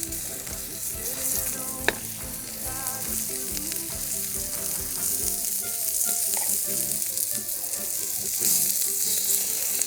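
Chicken sizzling hard on a steel griddle over a Swedish torch fire at full heat, a steady spitting hiss with faint crackles. A single sharp pop about two seconds in.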